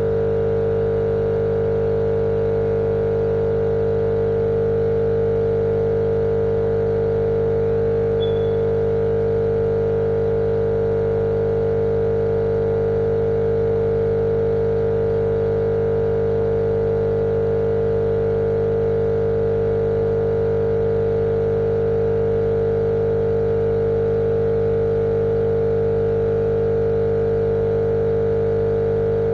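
Steady, unchanging droning hum with a strong mid-pitched tone over a lower hum, played as continuous sleep noise for babies.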